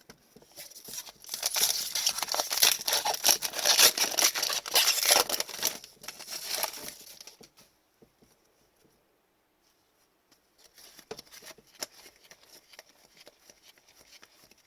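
A trading-card pack wrapper being torn open and crinkled for about six seconds, then a few light ticks of cards being handled near the end.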